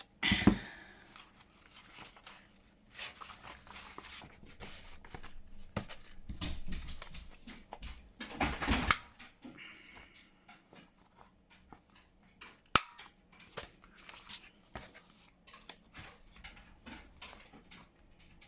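A corner rounder punch snapping through the corners of paper pages, two sheets at a time, with paper rustling as the pages are lined up between cuts. One sharp snap about two-thirds of the way through is the loudest sound.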